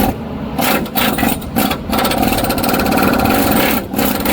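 Pneumatic impact tool running in several short bursts with brief stops between them, working on rounded-off bolts.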